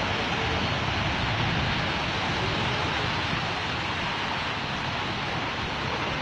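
Rough monsoon sea: a steady roar of surf breaking and washing up over the shore onto the land, with no single crash standing out. The sea is running unusually high, its waves overtopping onto the land.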